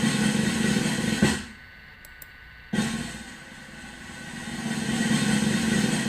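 A recording of drums with cymbals playing. Each of two passages swells and ends on a sharp hit, the first about a second in and the second near the end, with a short pause between.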